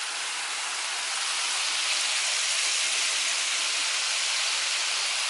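Shrimp kebabs sizzling on a small grill: a steady hiss that grows a little louder about a second in.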